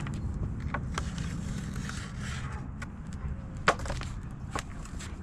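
Light scattered taps and scrapes of a cardboard template and sheet metal being handled while the outline is marked, with one sharper knock about two-thirds of the way through, over a low steady rumble.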